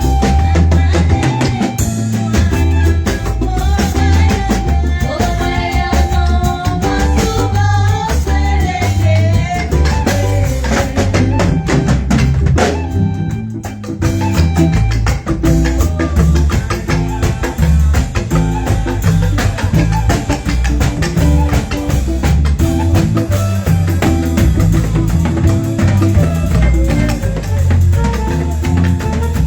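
Music with a drum kit and bass keeping a steady beat. A melody line runs over it for the first ten seconds, and the music briefly drops away about thirteen seconds in.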